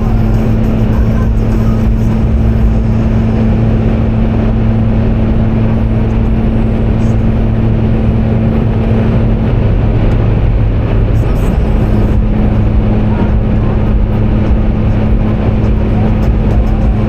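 A car driving, heard from inside through a dashcam: loud, steady road and running noise with a steady low hum. The higher part of the hum drops out for a couple of seconds a little past halfway.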